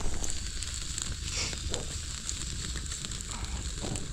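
Marinated chicken sizzling on a wire grill over a bonfire, with scattered crackles from the fire, as oil is put on the meat.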